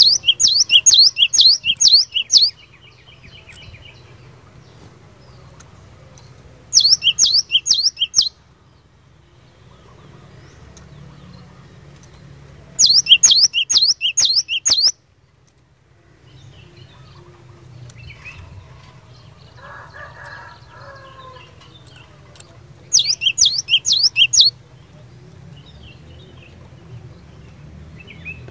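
Cinereous tit (glatik batu) singing in four loud bursts of quick, sharp repeated notes, about three a second, each burst lasting one to two and a half seconds. A faint low hum fills the gaps between bursts.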